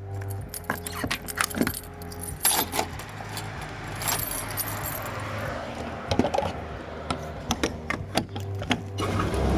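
Irregular light metallic jingling and clicking over a low steady hum.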